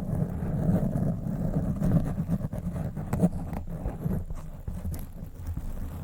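Microphone being scratched: a dense, continuous low rumbling scrape with many small sharp crackles scattered through it.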